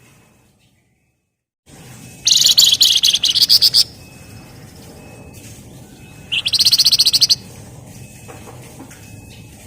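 Flamboyan (wergan Jawa) songbird giving two loud bursts of a very fast, dense rattling trill, the tight 'ngebren' call, each lasting about a second, the first longer than the second.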